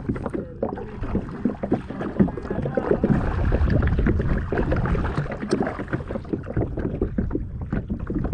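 Kayak paddles dipping and splashing in the water, a busy run of irregular splashes.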